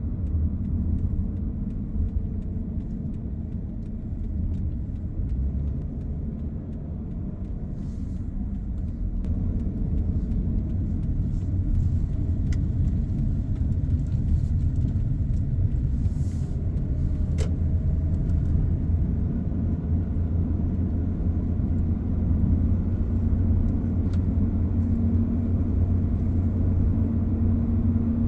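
A car driving along a road: a steady low rumble of engine and tyres, growing slightly louder over the first half, with a few faint ticks.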